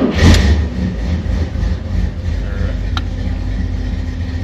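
C3 Corvette V8 engine firing up and settling into a steady idle, with a single light click about three seconds in.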